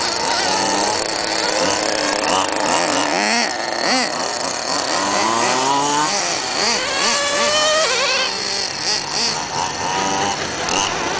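Small two-stroke petrol engines of 1:5 scale FG RC trucks revving up and down as they drive. The pitch keeps rising and falling, and at times two engines can be heard at different pitches together.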